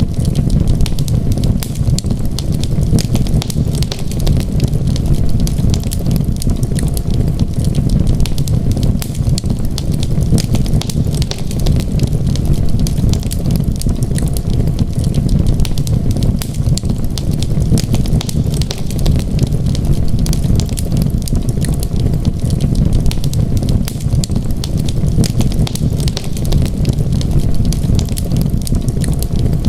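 A wood fire crackling, with a constant scatter of small sharp pops and snaps over a steady low rumble.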